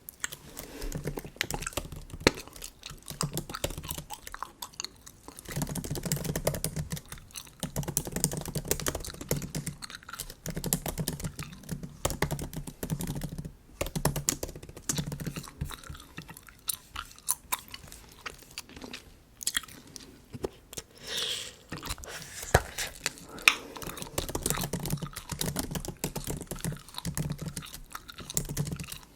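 Bubble gum being chewed close to the microphone: irregular wet smacks and clicks that go on throughout.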